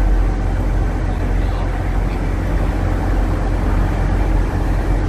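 Steady, loud, low engine rumble with a faint steady hum above it, typical of heavy machinery running on a construction site.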